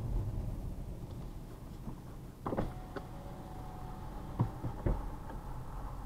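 Low idling engine rumble of stopped traffic, heard from inside a car's cabin, dying down, with a few short soft knocks about two and a half and four and a half seconds in.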